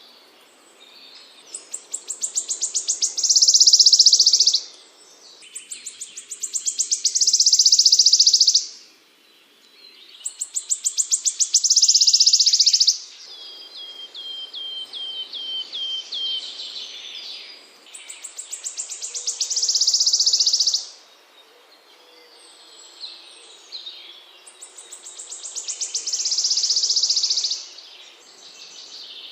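A small songbird repeating a trill that starts as spaced notes and speeds up into a dense, high buzzing trill, about every six to seven seconds. In the middle comes a short run of quick, falling whistled notes.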